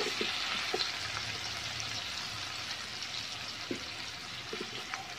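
Chicken pieces sizzling gently in hot oil in an aluminium pan, with a few faint pops; the sizzle slowly fades.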